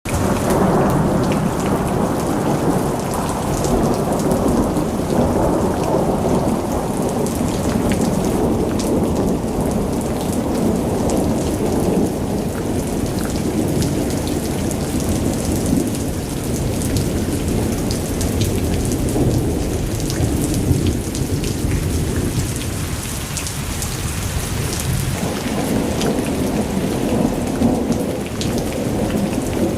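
Thunderstorm: steady rain pattering, with thunder rumbling and rolling underneath. The rumble eases a little for a couple of seconds shortly before the end, then swells again.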